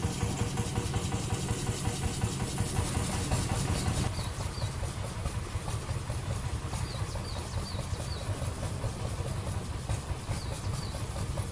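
Vintage engine running steadily with a fast low pulsing beat; the sound changes and gets quieter about four seconds in. Short runs of high chirps come through several times in the later part.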